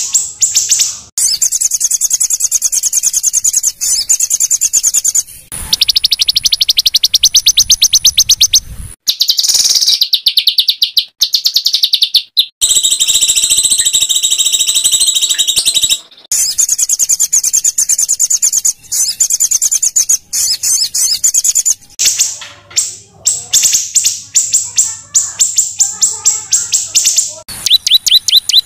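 White-rumped shama (murai batu) song: high, rapid rattling trills of fast-repeated notes, the coarse 'tembakan' volleys. The trills come in sections of a few seconds that change abruptly, with short pauses between.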